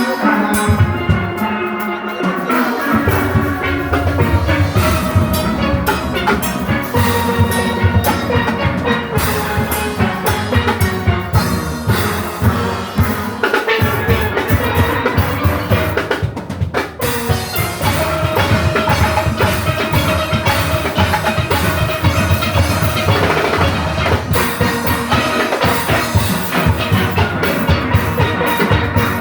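A steel orchestra playing: many steelpans ringing out a melody and chords over a drum kit and percussion, with a brief break about seventeen seconds in before the band comes back in.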